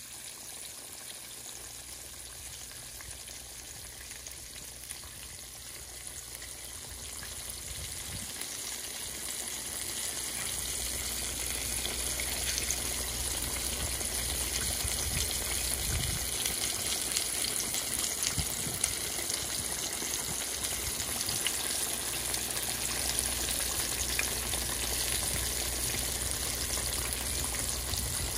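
Breaded catfish fillets frying in hot oil in a skillet: a steady sizzle with fine crackling, getting louder over the first ten seconds or so and then holding steady.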